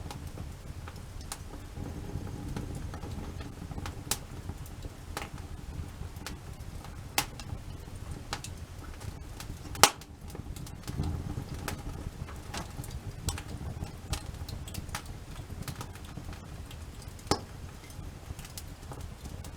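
Wood campfire burning, with irregular crackles and pops over a low rumble. One sharp, loud pop comes about ten seconds in.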